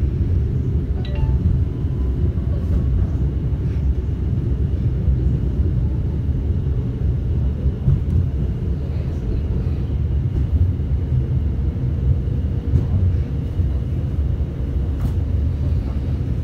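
Passenger train running along the line: a steady low rumble of the carriage and wheels on the rails.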